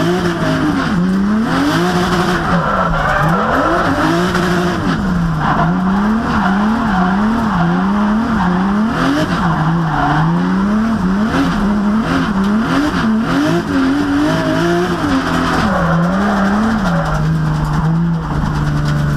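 A 600-horsepower drift car's engine revving up and down again and again as the driver works the throttle through a drift, with tyre squeal over it. The revs settle to a steady note near the end.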